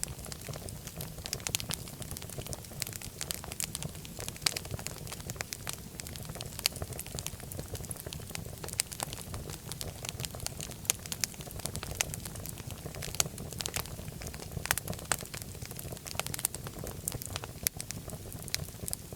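Wood fire crackling in a fireplace: a steady low rumble of the flames with frequent sharp pops and snaps at irregular intervals.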